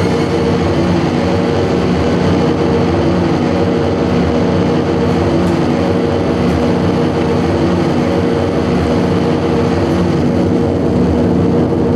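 Experimental noise music played live by an improvising ensemble: a loud, steady drone of held low tones over a dense, slightly pulsing rumble, engine-like in character.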